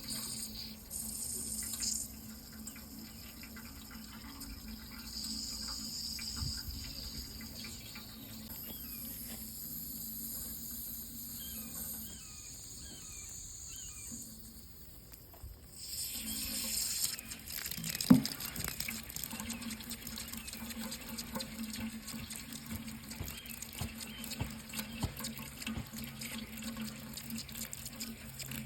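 Water running from a tap into a sink in a steady, splashing flow, with a single sharp knock about 18 seconds in.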